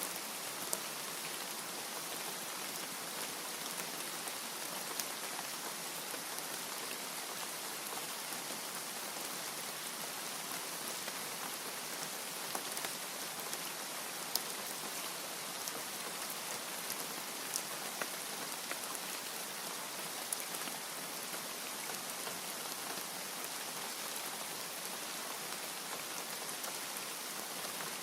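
Steady heavy rain, a continuous even hiss with scattered sharp drop ticks. No thunder.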